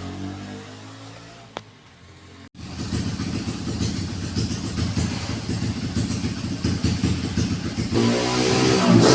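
CRF155 grass-track-spec motorcycle's single-cylinder four-stroke engine at a sound check. It runs quietly at first; then, from a cut about two and a half seconds in, it is much louder with a ragged crackle, and it revs up near the end.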